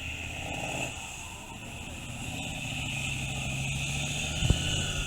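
Truck engine running steadily, growing a little louder in the second half, with a single sharp knock near the end.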